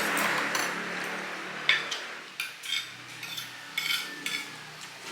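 Spoons and forks clinking against plates and bowls while eating a meal. The first two seconds hold a steady noisy rustle, followed by a string of sharp, separate clinks.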